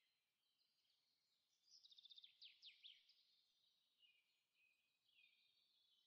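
Faint birdsong: a rapid trill of quickly repeated notes about two seconds in, followed by a few quick downward-sweeping notes, with softer twittering around them.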